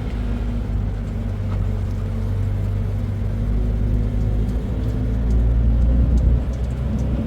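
Car running with a steady low rumble and a constant engine hum.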